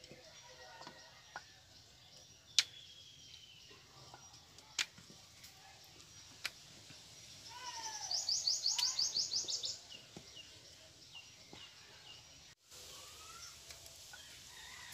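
Birds calling in the background: small repeated chirps at first, then about eight seconds in a fast high-pitched trill of rapid notes lasting about two seconds, with a falling call under it. A few sharp clicks of a wooden rolling pin knocking on a wooden board come in between.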